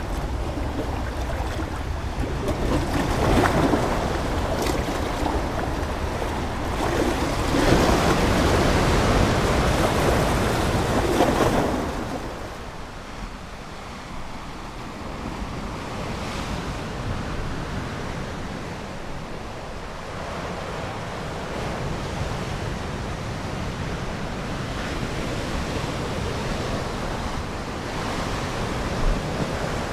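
Ocean waves breaking and washing on a shore: two bigger surges in the first half, then a softer, steady wash.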